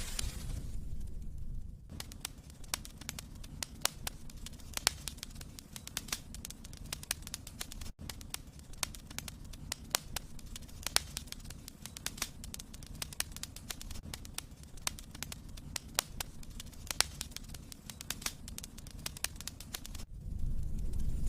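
Wood fire burning in a fireplace, crackling with irregular sharp pops and snaps over a low rumble of the flames; the pops are missing in the first two seconds and again near the end.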